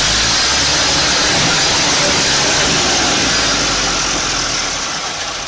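A machine's engine running under a loud, even hiss, easing off a little near the end.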